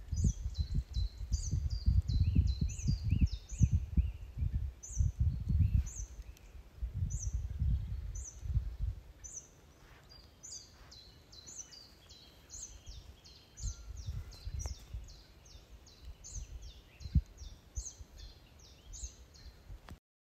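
Wild birds singing: quick runs of short, high chirps that fall in pitch, repeated again and again, with softer chirping beneath. Wind buffets the microphone, heaviest in the first several seconds and gusting again later.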